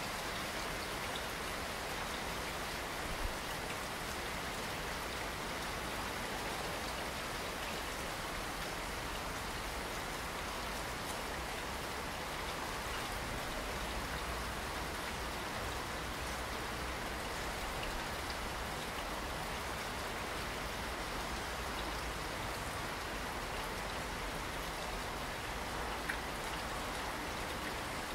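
Steady rainfall: an even hiss of many drops, with a sharper single drop hit about three seconds in and again near the end.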